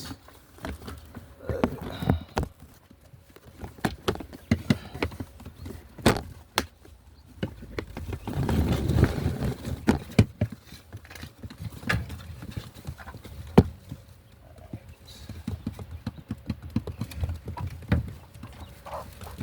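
Irregular light taps and clicks, with a denser rustling stretch about eight to ten seconds in and one sharp tick a little later.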